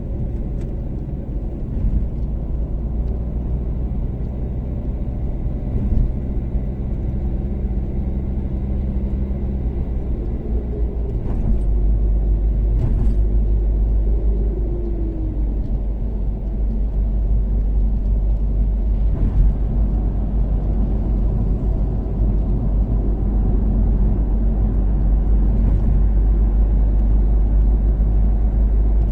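Toyota Caldina's 3S-GTE turbocharged four-cylinder engine and tyre and road noise while cruising on an expressway. The engine's steady note gives way about eleven seconds in to a louder, deeper low rumble.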